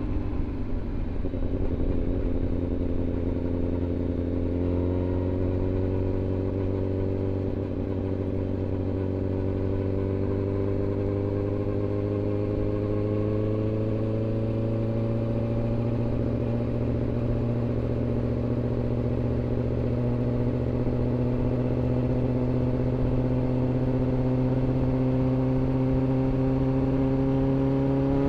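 Inline-four sportbike engine running under a steady light throttle, its pitch creeping slowly upward as the bike gathers speed.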